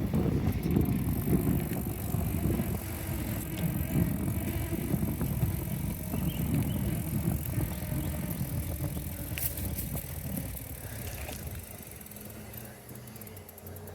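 Bicycle ride heard from the rider's camera: a fluttering wind rumble on the microphone with tyre and road noise. It eases off near the end, and there are a few light clicks partway through.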